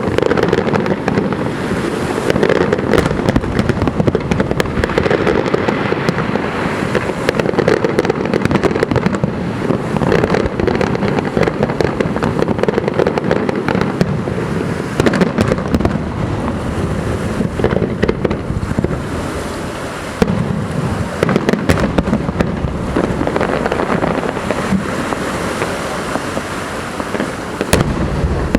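Harbour fireworks display: a continuous barrage of bangs and crackling.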